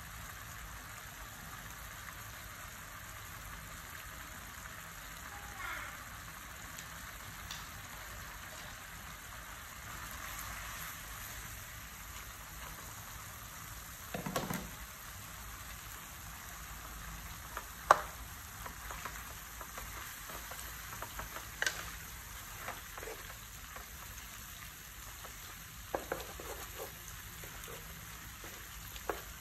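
Beef and broccoli frying in a wok with a steady sizzling hiss. About halfway through comes a soft, low thump as the noodles drop into the pan. After that, a spatula stirs and knocks against the metal wok several times, and the knock a little past halfway is the loudest.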